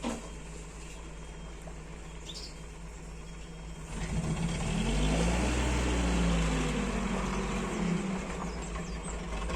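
A motor vehicle passes by: a low rumble swells from about four seconds in, its engine note rising and then falling as it goes past, and slowly fades.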